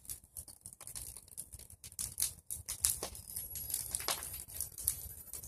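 Bonfire of pruned tree branches burning, crackling with irregular sharp pops and snaps.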